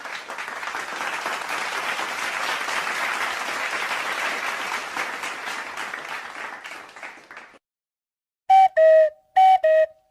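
An applause sound effect: a crowd clapping, which stops abruptly about two thirds of the way in. Near the end come four short, loud tones in two falling pairs, a high note then a lower one, twice.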